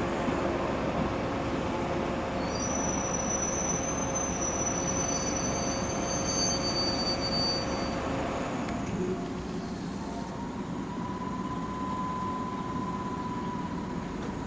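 103 series electric train running through a level crossing: steady rumble of wheels on rail, with a high-pitched wheel squeal from about two and a half seconds in to about eight. After about nine seconds the noise eases slightly and a steady single tone comes in.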